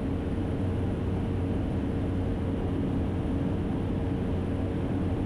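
Cessna Caravan's single turboprop engine and propeller in the climb, a steady drone with a few constant hum tones under broad cabin noise.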